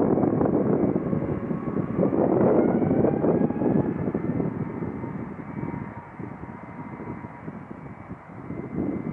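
Airbus A350's Rolls-Royce Trent XWB turbofans at takeoff power: a loud jet rumble with a faint high whine over it, fading away from about five seconds in as the airliner departs.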